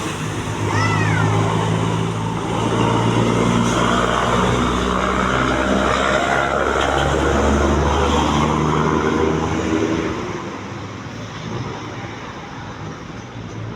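A truck driving past, its engine hum swelling to a peak mid-way and fading away after about ten seconds.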